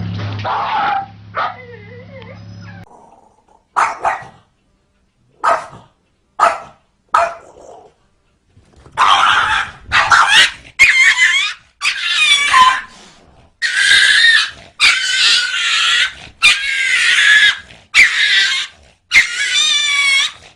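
Dog barking: a few short, sharp barks, then about ten longer yelping barks with wavering pitch, coming roughly once a second.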